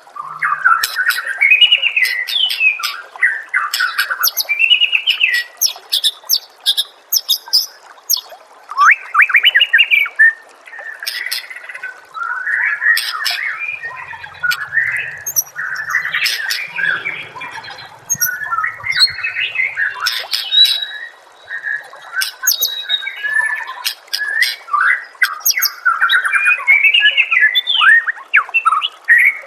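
White-rumped shama (murai batu) singing a fast, varied song of whistled phrases, chattering trills and sharp clicking notes, with hardly a pause.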